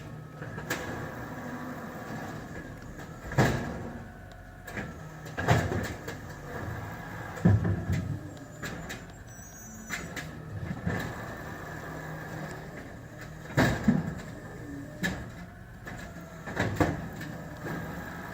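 Garbage truck collecting carts: the diesel engine runs steadily with a hydraulic whine, while loud bangs and clatters come about two seconds apart in two spells as carts are tipped and banged into the hopper.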